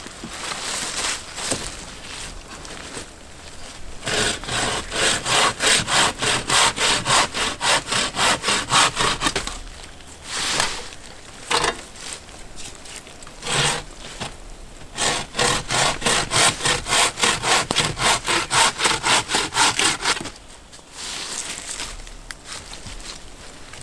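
Hand saw cutting wood in quick back-and-forth strokes, about two or three a second. There are two runs of several seconds each, with a few single strokes between them.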